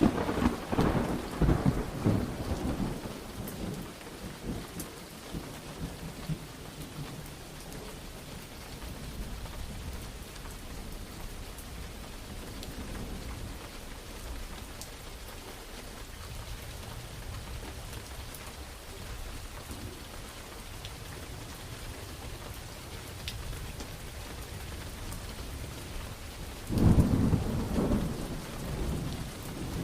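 Steady rain falling, with two thunderclaps: a loud crack at the start that rumbles away over several seconds, and another sudden clap near the end.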